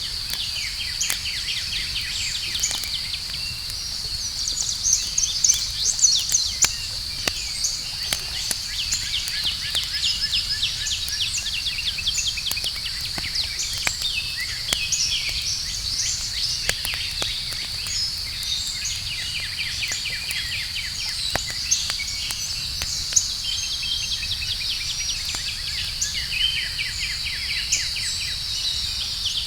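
Campfire crackling with scattered sharp pops, under a steady high-pitched insect drone and frequent bird chirps and trills.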